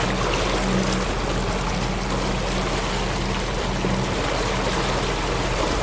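Boat engine running steadily, a low hum under a constant rush of water and wind noise.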